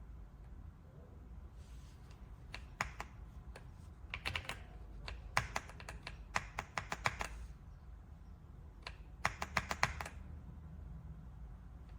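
Typing on an AULA F75 Pro mechanical keyboard with pre-lubed Reaper switches: short runs of sharp keystroke clacks, a few at a time, with pauses between the runs. The longest run falls in the middle.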